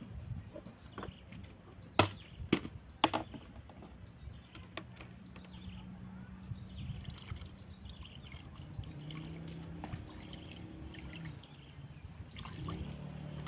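Water trickling and lapping, with three sharp knocks about two to three seconds in and a low steady hum in the second half.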